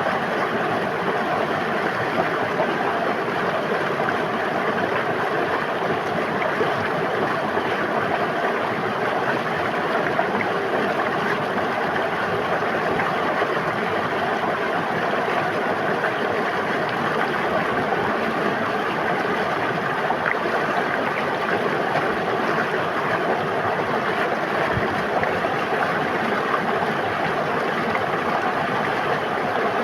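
River water flowing and babbling steadily, an even rushing noise with no change in level.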